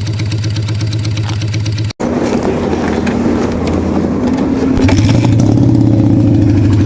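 Motorcycle engine idling with an even ticking. After a brief cut about two seconds in it runs on and rises in pitch and level about five seconds in as it is revved up.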